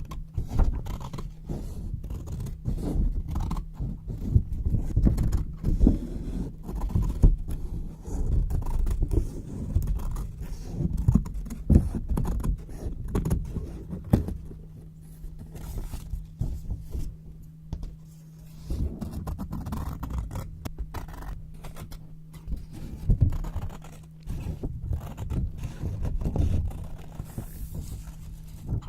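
Scissors cutting white paper close to the microphone, in a run of irregular crisp snips and papery rustles. A faint steady low hum sits underneath for the second half.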